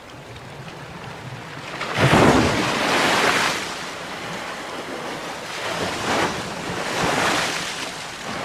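Sea waves breaking on the shore: one big wave crashes about two seconds in, and smaller waves wash in twice near the end.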